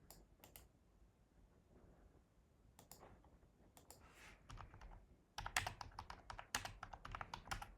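Typing on a computer keyboard: a few scattered keystrokes, then a quick run of keystrokes over the last two seconds or so.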